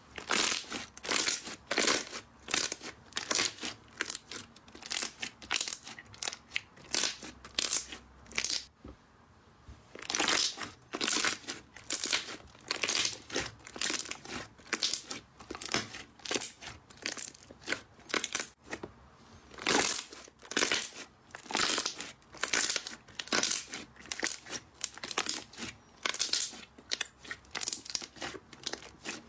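Slime being squeezed and pressed by hand close to the microphone, giving a run of short crackly crunches about one to two a second, with a brief pause about a third of the way through.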